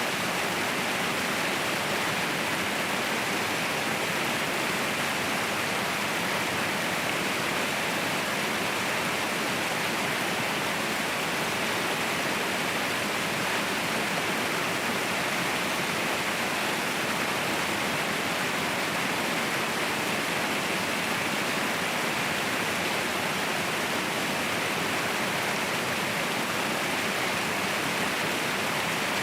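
Mountain waterfall rushing: a steady, unbroken roar of falling water, strongest in the middle and upper range.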